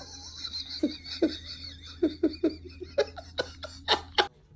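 Laughter in a string of short bursts, over a steady low hum that stops near the end.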